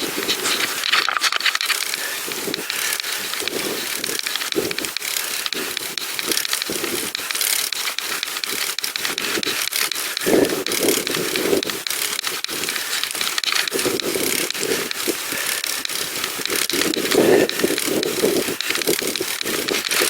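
Continuous crackling and scraping noise of a pedal bike ride, dense with short clicks and crunches.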